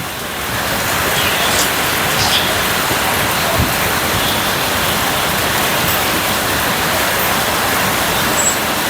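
Steady rain falling, a dense even hiss with a few faint drop ticks scattered through it; it grows slightly louder about half a second in.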